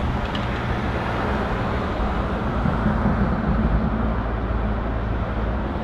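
Steady engine and road noise heard from inside a moving car's cabin.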